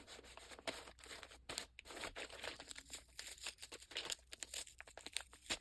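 Plastic packaging crinkling as it is handled, a quick, irregular run of small crackles.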